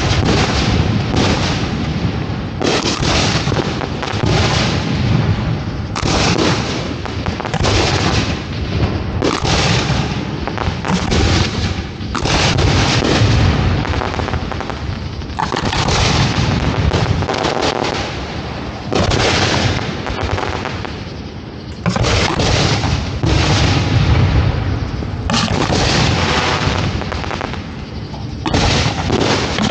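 Fireworks show shells launching and bursting in a near-continuous barrage of booms, coming in waves, with a brief lull about three quarters of the way through, heard from close to the firing site.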